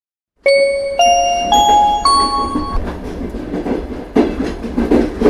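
After a brief silence, a four-note chime steps upward, one note about every half second, over the steady rumble of a train. From about four seconds in, the train noise swells in a rolling rhythm.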